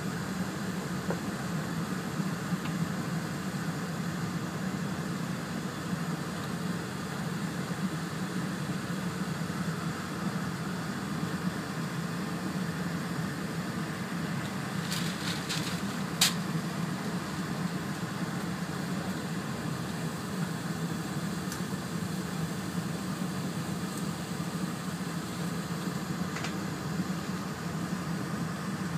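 Steady running noise inside the passenger cabin of an E4 series Shinkansen travelling at speed: a low hum with a hiss above it. A few short clicks about fifteen seconds in, one of them sharp.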